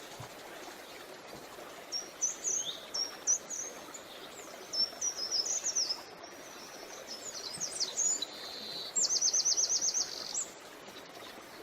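Small birds singing with quick high chirps over the steady sound of flowing creek water. Near the end one bird gives a fast, even trill of about ten notes.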